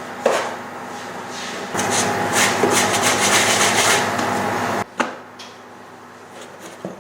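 Bread dough being worked by hand on a work surface: a knock, then a few seconds of rubbing and scraping that stops abruptly, followed by a single sharp tap.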